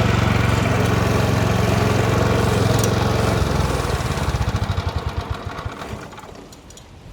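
DR stump grinder's engine running steadily, then shut off about three and a half seconds in. Its firing slows into separate pulses as it winds down to a stop.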